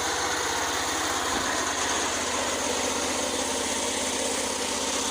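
Engine idling steadily, with an even, rapid firing pulse.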